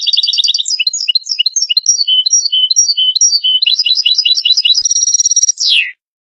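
European goldfinch singing one continuous phrase of fast, tinkling twitters and trills, ending with a note that slides downward after about six seconds.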